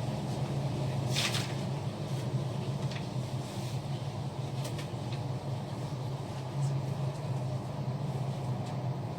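A steady low hum throughout, with a few brief swishes: one about a second in, and others near three and five seconds.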